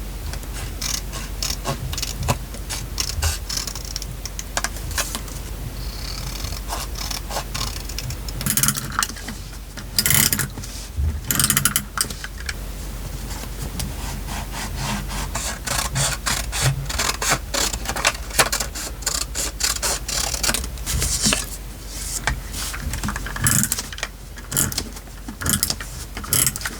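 Paper and craft materials being handled, rubbed and pressed down while decorating a journal page: irregular rustles, scrapes and light clicks, denser in flurries about ten, twenty and twenty-four seconds in.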